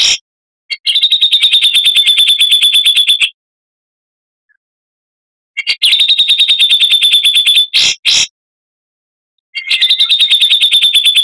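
Oriental magpie-robin (kacer) giving fast, even trills of high repeated notes, about a dozen a second. It sings three phrases of roughly two seconds each, separated by short silences, with two quick single notes between the second and third.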